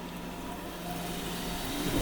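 A motor vehicle's engine running and drawing nearer, growing louder toward the end.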